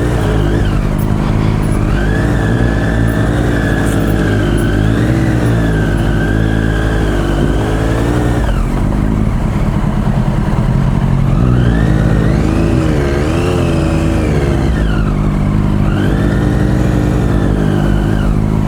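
Motorcycle engine revving under load: it climbs to high revs and holds there, drops back about halfway through, then revs up and falls away twice more as the bike works to get free of mud.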